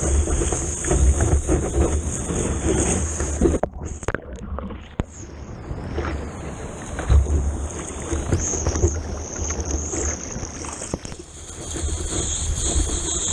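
Ocean water rushing and splashing with wind buffeting a GoPro's microphone, a heavy low rumble throughout. About four seconds in, the sound goes briefly dull and muffled, as if the camera dips into the water.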